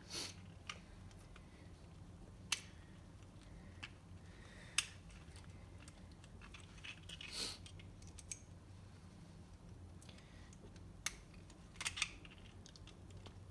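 Scattered light clicks and taps of small jet-pump parts and hand tools being handled during disassembly, about eight over several seconds, with a brief rustle about seven seconds in.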